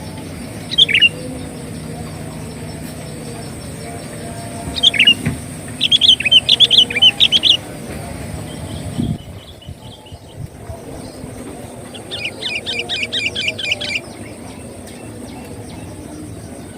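Sooty-headed bulbul (kutilang) calls: a short call about a second in, another around five seconds, then a burst of rapid chattering. After a pause, a quick run of evenly repeated notes comes near the end, over a steady background hum.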